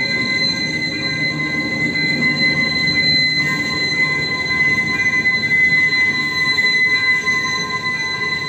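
Passenger train running past at a level crossing: a steady high-pitched wheel squeal over the low rumble of the train, the rumble swelling in the middle of the passage.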